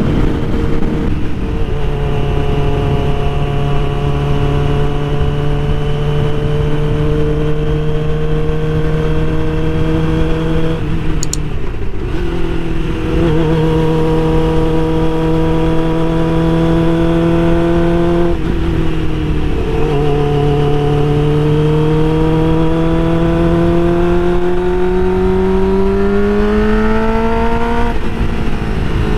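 Suzuki GSX-R600 inline-four engine under way, its pitch holding or climbing slowly and dropping at gear changes several times, under heavy wind buffeting on the microphone.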